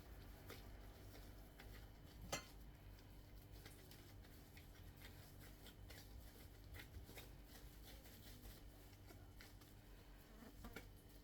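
Near silence: faint scattered clicks and light handling sounds over a low hum, with one sharper click about two seconds in.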